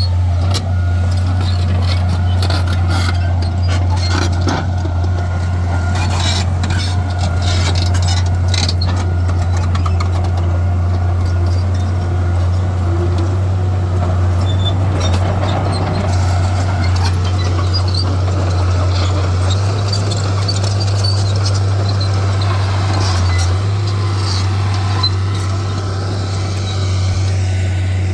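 Heavy earthmoving machinery running with a steady low engine drone, with scattered knocks and clanks for the first several seconds.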